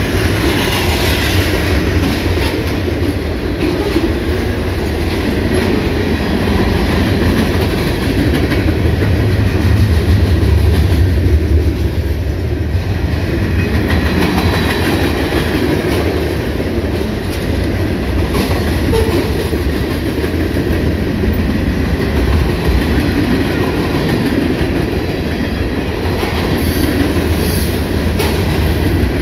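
Freight cars of a long CSX train rolling past, steel wheels running on the rails with a steady low rumble, a little louder about ten seconds in.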